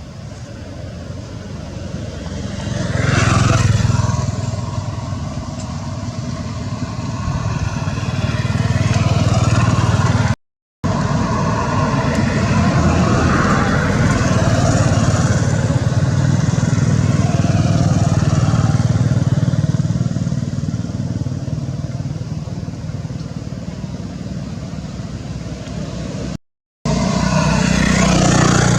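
Road traffic: motor vehicles running and passing close by, swelling and fading several times. The sound cuts out completely twice for a moment.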